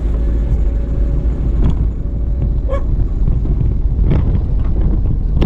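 Car driving, heard from inside the cabin: a steady low rumble of engine and road, with a faint steady tone for the first half and a few light knocks.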